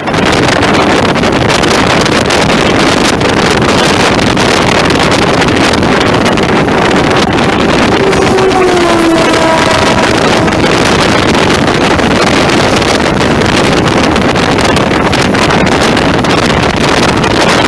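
Loud, steady wind and wheel-on-rail rumble at the open door of a moving electric local train. About eight seconds in, a passing electric locomotive's horn sounds for about two seconds, its pitch sagging as it goes by.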